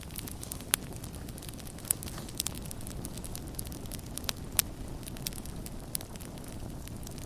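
Campfire burning with a steady low rumble and irregular sharp crackles and pops from the burning wood, a few louder pops standing out.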